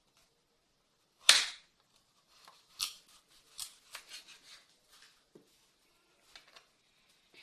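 Kitchen knife slicing a carrot into thin strips on a cutting board: one sharp knock of the blade about a second in, then a run of lighter, irregular cutting taps.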